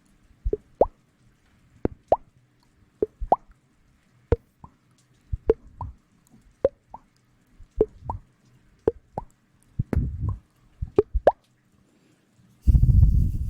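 A series of short, wet plops close to the microphone, roughly one or two a second, each rising quickly in pitch. Near the end comes a loud, low rubbing rumble.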